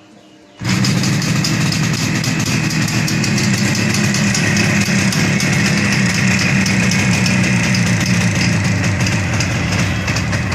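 Motorcycle engine idling steadily, loud and close, starting abruptly just over half a second in.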